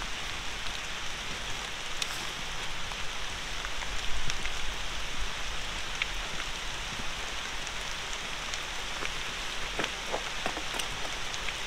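Steady rain falling, with scattered sharper drops ticking now and then.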